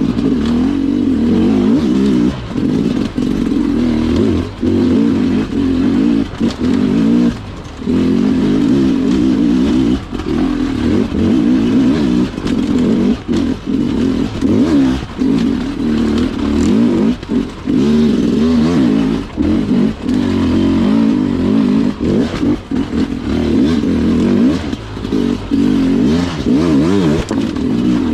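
Two-stroke Sherco dirt bike engine running in second gear, the throttle chopped and opened again and again, so the engine note drops out briefly every second or two and picks back up.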